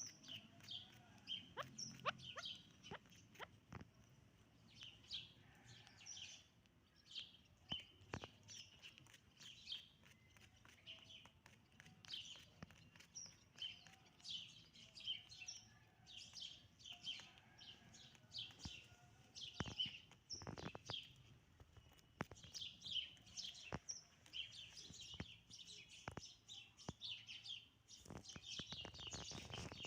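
Chukar partridges calling: a busy run of short, faint, high chirps, many each second, with a few sharp clicks among them.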